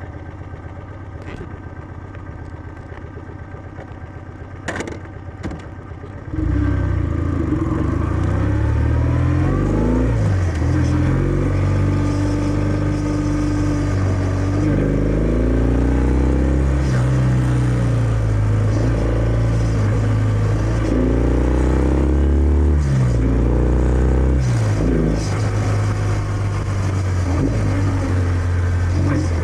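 Kawasaki W650's air-cooled parallel-twin engine through its stock exhaust, idling with a couple of brief clicks, then about six seconds in pulling away. It accelerates up through the gears, the pitch rising and dropping back with each shift.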